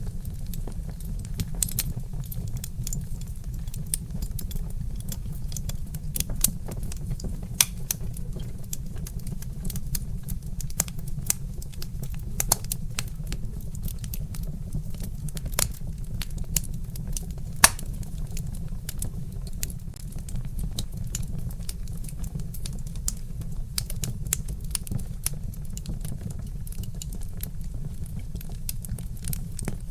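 Wood fire crackling: a steady low rumble with irregular sharp snaps and pops from burning logs, a few of them louder.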